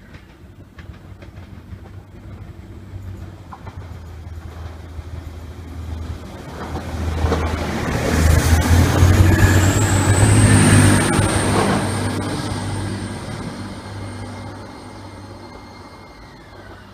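TransPennine Express Class 185 diesel multiple unit approaching and passing close by at speed: engine drone and wheel-on-rail noise swell to a peak about eight to eleven seconds in, then fade as it goes away.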